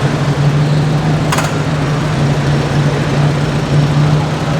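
A car engine idling close by: a steady low hum, with a brief clatter about a second and a half in.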